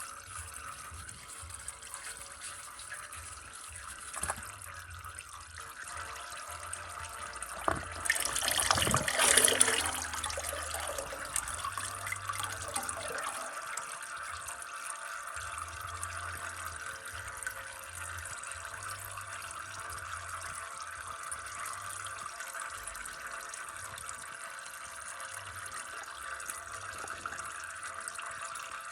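Engine oil running steadily into a drain pan, with a couple of knocks and a louder burst of handling noise about eight to ten seconds in.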